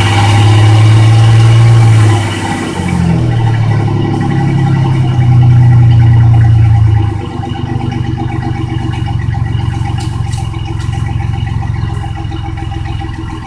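Exhaust of a 2008 Chevy Silverado's 4.3 L Vortec V6, stock system, running shortly after a cold start. The engine is held at raised revs twice, briefly dropping between, then falls back to a steady, quieter idle about seven seconds in.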